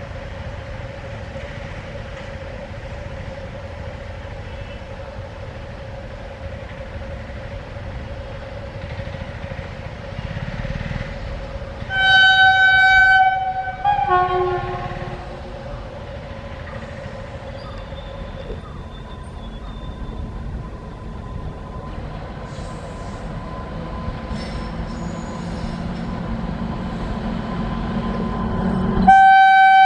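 Train running with a steady low rumble. The locomotive horn sounds about halfway through, first one held blast, then a shorter wavering one. The rumble grows towards the end, and a loud horn blast starts just before the end.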